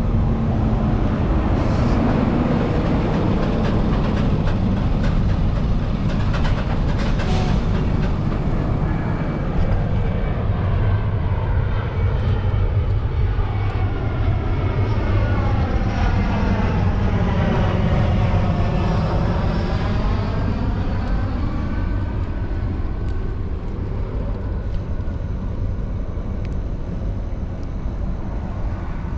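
An aircraft passing overhead: a steady rumble with a phasing whoosh that sweeps down in pitch and back up over the middle stretch.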